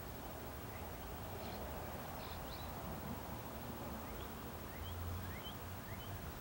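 Faint outdoor background with a steady low hum, over which small birds give a few faint, short rising chirps, with a quick run of them near the end.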